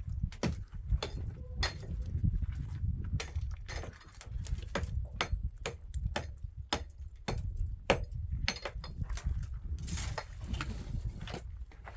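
Hand-tool blows on building material, a string of sharp, unevenly spaced knocks about two a second, over a low rumble.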